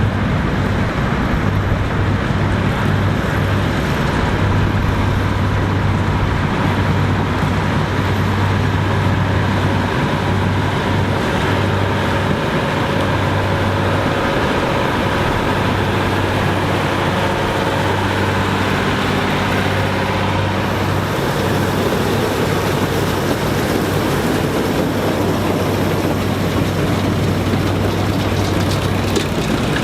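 Farm harvesting machinery running steadily: a constant low engine drone under a continuous mechanical rush.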